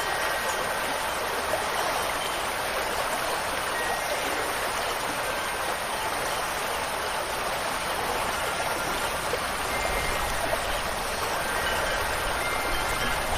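Steady rushing of flowing water and rain. Faint ringing wind-chime tones come in near the end.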